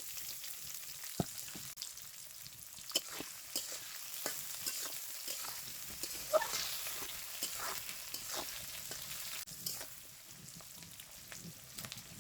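Chopped onion sizzling in hot oil with whole spices (cinnamon, cardamom, bay leaf), stirred with a spatula that clicks and scrapes against the pan now and then.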